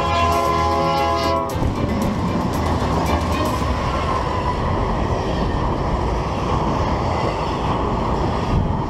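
Freight train passing close by: the locomotive's air horn sounds a steady multi-note chord that cuts off about a second and a half in, then the rolling cars make a dense, steady noise of steel wheels on the rails.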